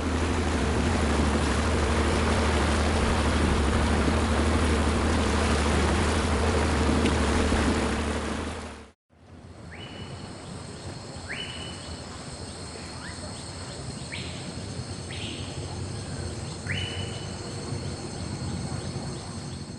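Boat motor running on the river, a steady low drone under loud rushing water and wind noise. It cuts off suddenly about nine seconds in and gives way to quieter forest ambience: a steady high-pitched insect drone and several short rising calls.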